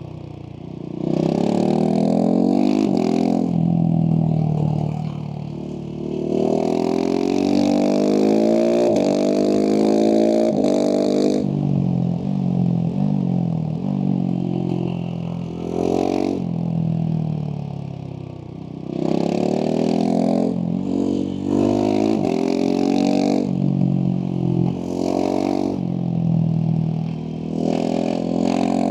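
Husqvarna 701 SM's big single-cylinder four-stroke engine through a Leovince slip-on exhaust, accelerating hard. Its pitch rises repeatedly and drops back at each gear change. Twice it falls off briefly as the throttle closes.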